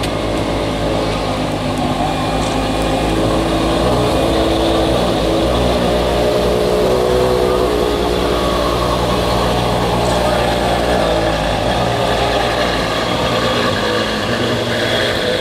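Ferrari 599 SA Aperta's V12 engine running at low revs as the car pulls away slowly, a steady deep engine note that grows a little louder over the first few seconds.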